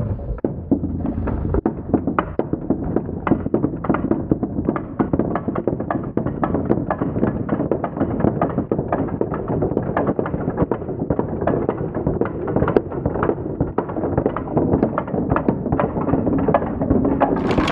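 Many marbles rolling and clattering down wooden ramps: a dense, unbroken rattle of clicks and knocks.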